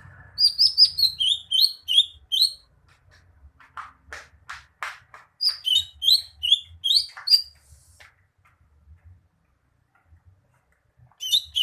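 A green leafbird (cucak hijau) singing: quick runs of sharp, repeated whistled notes in three phrases, with a short burst of harsher, lower chattering notes between the first two and a pause of a few seconds before the last.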